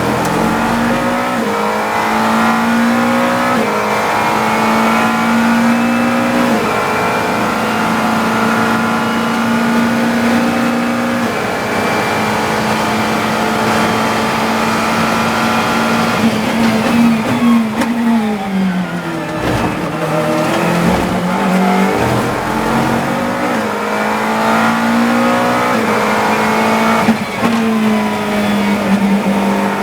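GT3 race car engine at racing speed, heard from the cockpit, held high with quick gear changes. About two-thirds of the way through, the pitch drops steeply in a run of downshifts under braking, then the engine pulls up through the gears again.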